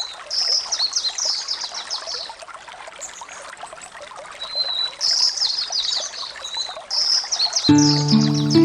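A songbird singing three bursts of quick, high notes, with a short steady whistle between the first two, over a trickling stream. Near the end, music with low held notes comes in.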